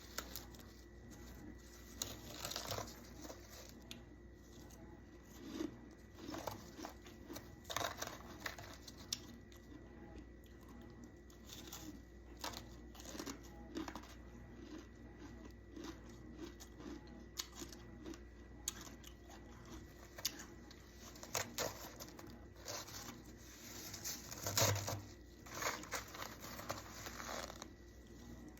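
Frost on a frosted plate being scraped and crunched: irregular crisp crackling, scratchy strokes, the loudest a little before the end, over a steady faint hum.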